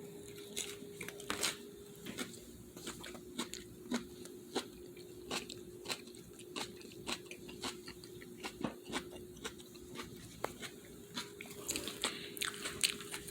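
A person chewing a mouthful of salad, with irregular crisp crunches of raw leaves and vegetables between the teeth.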